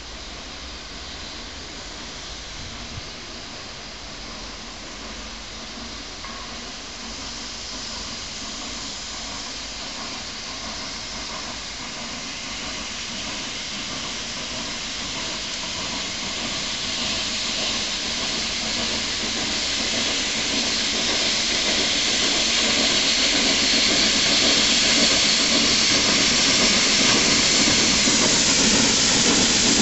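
Ok22-class steam locomotive letting off a steady hiss of steam that grows gradually louder.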